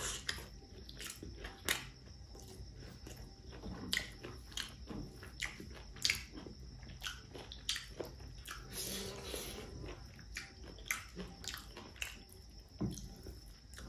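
A person eating pork curry and rice with their hand: chewing and wet lip-smacking, with sharp irregular clicks every second or so, and fingers mixing the rice and curry on the plate.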